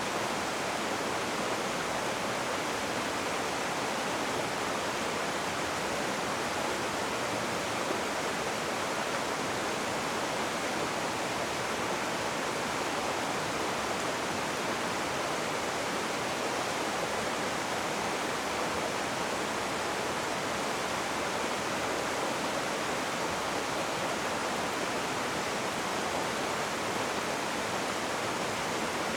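Rushing river water: a steady, even roar of flowing water with no breaks or changes.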